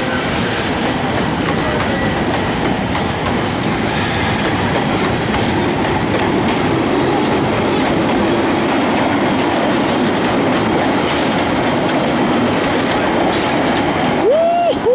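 Narrow-gauge train hauled by a TU7A diesel locomotive rolling along the track, with wheels clattering over the rails in a steady, loud noise. Near the end comes a short high tone that rises, holds briefly and falls away.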